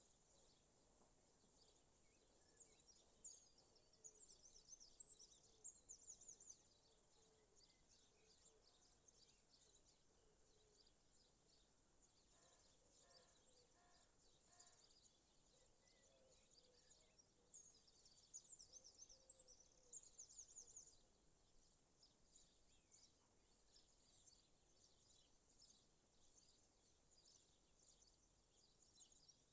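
Faint birdsong: small birds give bursts of quick, high chirps, with a short run of evenly repeated lower notes around the middle.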